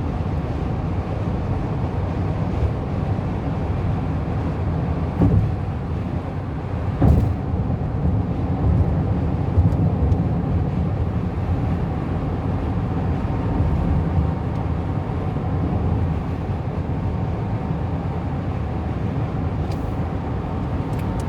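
Steady road and engine rumble of a car driving on a highway, heard from inside the cabin, with a couple of brief thumps about five and seven seconds in.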